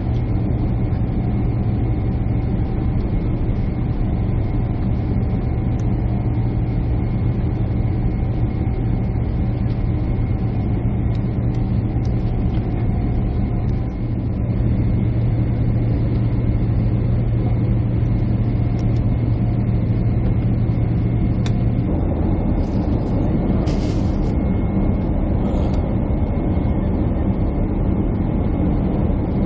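Airliner cabin noise: the steady drone of the jet engines and airflow heard from a window seat. About two-thirds of the way through, the low hum drops away and a broader rushing noise takes over, with a brief hiss just after.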